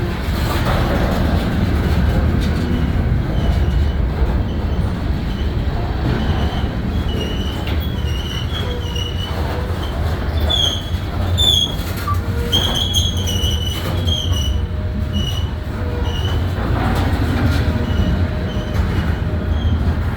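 Freight train of grain cars rolling slowly, with a steady heavy low rumble and short high-pitched wheel squeals that come and go, most of them in the middle stretch.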